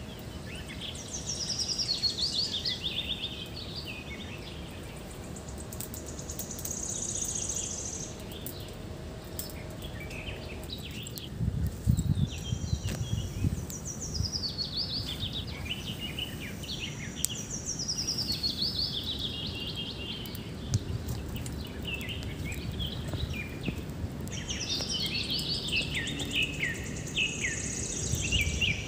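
A bird singing songs of quick notes that tumble down in pitch, each phrase a couple of seconds long and repeated every several seconds, over a steady outdoor hiss. A few low rumbles come about halfway through.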